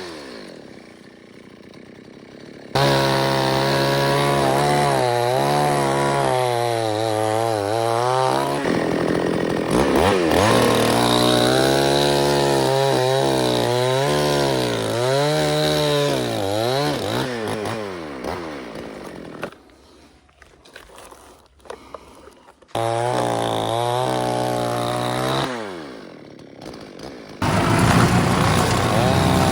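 Two-stroke chainsaw revving up and down again and again as it cuts, twice falling back to a low idle. Near the end a lower, steadier engine sound takes over.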